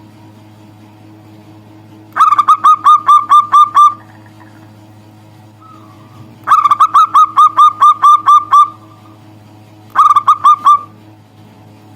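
Zebra dove (perkutut) calling in three bursts of rapid, evenly repeated cooing notes, each burst one to two seconds long, over a steady low hum.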